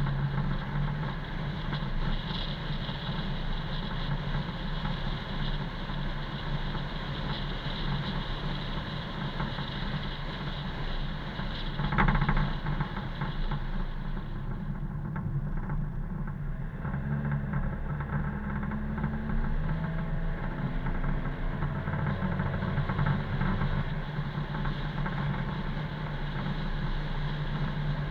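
Car engine and road noise heard from inside the moving car, steady, with the engine note shifting in steps a few times in the second half and a short louder knock about twelve seconds in.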